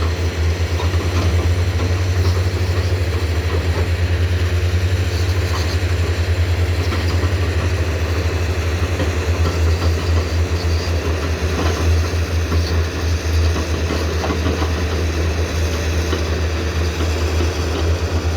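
Komatsu PC210-10M0 excavator's diesel engine running steadily with a low, pulsing hum.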